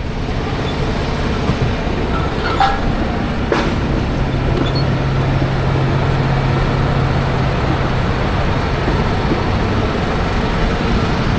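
Steady rumble of a running vehicle, with a low hum that sets in about four seconds in.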